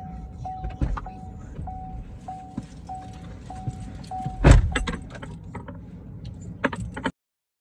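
Car's door-open warning chime beeping about every 0.6 s, then a car door shuts with a loud thump about four and a half seconds in and the chime stops. A few sharp clicks follow before the sound cuts off.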